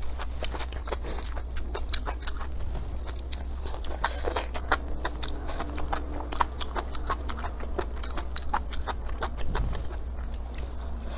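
Close-miked chewing and biting of soft braised pork and mushrooms: many short wet smacks and clicks, irregular and several a second. A steady low hum runs underneath.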